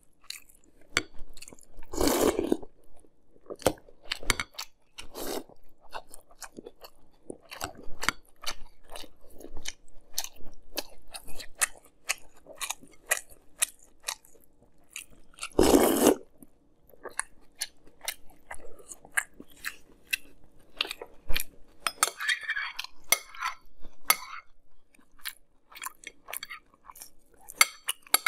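Close-up chewing of crunchy Fruity Pebbles cereal in milk: a steady run of small wet crunches, with two louder, longer bursts about two seconds in and again around sixteen seconds. Near the end a spoon clinks against the glass bowl.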